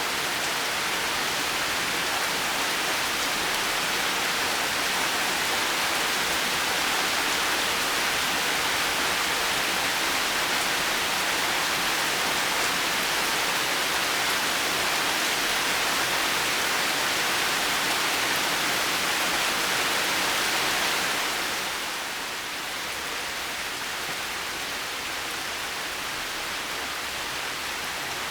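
Heavy rain falling steadily, an even hiss with no thunder; it eases slightly about three quarters of the way through.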